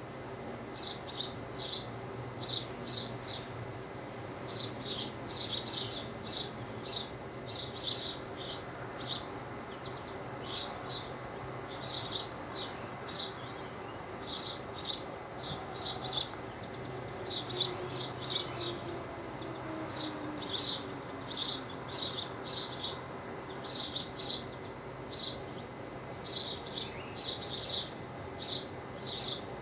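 Birds chirping: short, high chirps in quick clusters of two to four, repeating every second or so, over a steady low hum.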